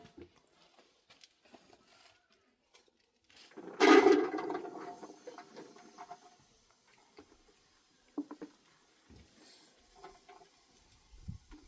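A short rush of liquid, like water being poured or splashed, about four seconds in, fading over a couple of seconds. Small scattered clicks and knocks of handling around it.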